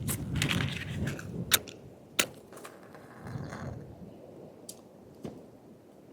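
Handling noises: rustling and scraping that die away, with two sharp clicks early on and a couple of fainter taps later.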